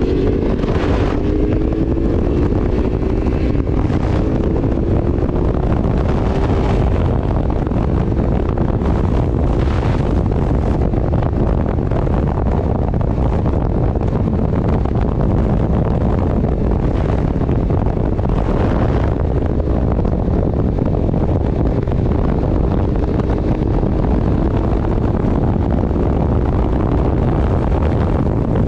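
Wind buffeting the microphone while riding, with the vehicle's engine underneath. The engine's pitch drops over the first few seconds and climbs again near the end.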